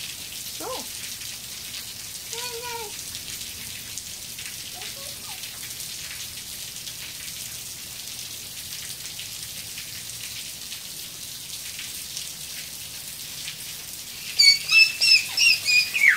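Steady rain falling on a flooded concrete patio, an even hiss full of fine drop ticks. Near the end, a quick run of about six loud, high-pitched squeals.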